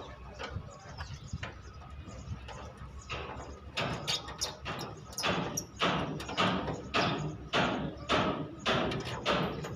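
Hammer blows on a truck's sheet-metal body panel, about two a second. They are faint at first and grow louder about four seconds in.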